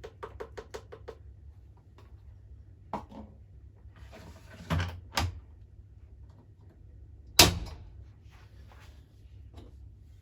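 Clicks and knocks from a Miele Novotronic W921 washing machine being operated. There is a quick run of about seven clicks in the first second, then a few knocks, then one loud, sharp clunk about seven seconds in, over a steady low hum.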